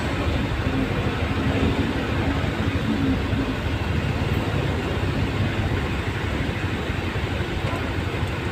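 A vehicle driving through heavy rain on a wet, flooded road: a steady low engine and road rumble with a constant hiss of rain and water.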